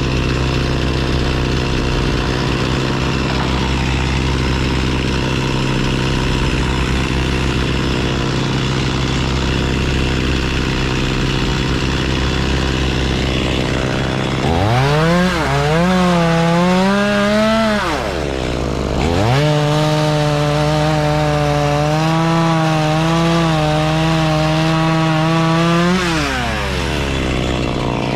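Chainsaw revved up twice over the steady drone of another engine running: a burst of about three seconds halfway through, its pitch dipping and climbing, then a longer, steadier run of about seven seconds that winds down near the end.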